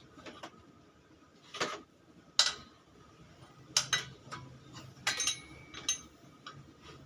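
Metal tools and engine parts clinking during work on a Honda Vario scooter engine: about half a dozen separate sharp clinks and taps, the loudest about two and a half seconds in, one of them briefly ringing near the five-second mark.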